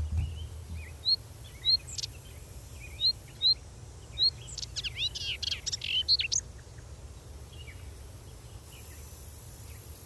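Wild birds chirping in forest. A handful of short, high single chirps come spaced through the first few seconds, then a quick burst of rapid sweeping song notes near the middle, over a faint steady low background hum.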